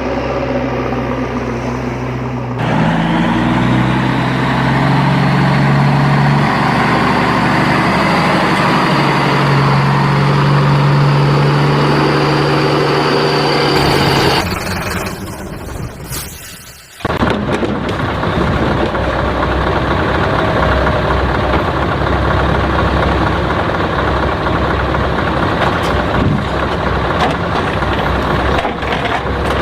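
Truck engine sound running, its pitch climbing in steps over the first half as if through the gears. It breaks off briefly past the middle, then gives way to a rougher, steady rumble.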